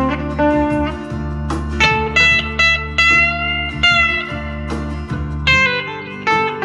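Squier Jaguar electric guitar with single-coil pickups, played through a JHS NotaKlon overdrive pedal into a Vox AC10 amp: single-note lead lines with string bends around the middle, over a backing track of sustained chords that change near the end.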